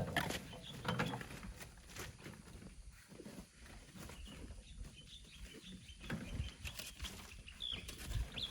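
Irregular knocks and scrapes of hand tools working sand and rock, with a couple of short bird chirps near the end.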